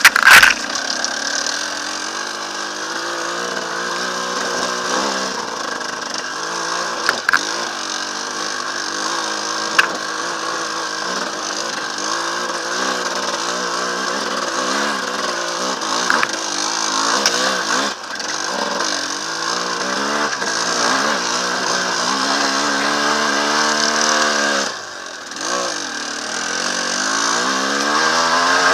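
Enduro motorcycle engine revving up and down continuously as the bike is ridden, with the throttle easing off briefly near the end. A few sharp knocks, the loudest at the very start.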